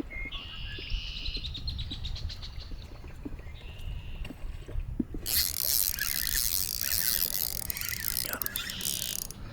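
Fishing reel ratcheting in quick clicks as a fish is played, twice in the first four seconds. Then, from about five seconds in, a loud, sustained splashing as a hooked pickerel thrashes at the surface beside the kayak.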